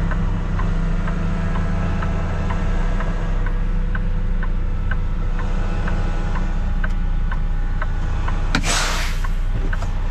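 Kenworth T680 semi truck's diesel engine idling, with a steady light ticking about two or three times a second. About eight and a half seconds in comes a short, loud hiss of air, typical of the air parking brake being set.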